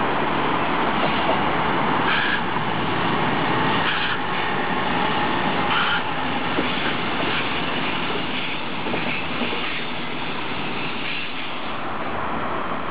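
Electric locomotive-hauled train of double-deck passenger coaches rolling past on the rails with a steady running noise, with a short clatter every couple of seconds in the first half as the coaches go by.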